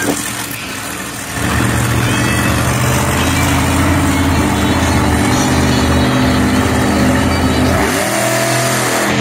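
Monster truck engine running hard at high revs. It climbs about a second and a half in and holds, then drops and revs back up near the end.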